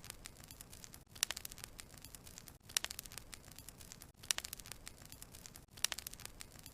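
Wood fire crackling: bursts of sharp pops and snaps over a low hiss, the bursts coming about every second and a half in a repeating pattern.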